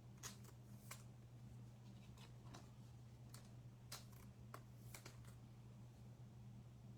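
Faint, scattered soft clicks and rustles of trading cards being handled and sorted, over a steady low electrical hum.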